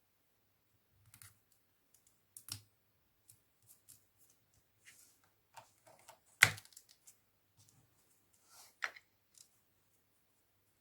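Irregular small clicks and taps of LEGO plastic parts being handled and fitted in an assembling tool, about a dozen in all, the loudest a sharp click a little past the middle.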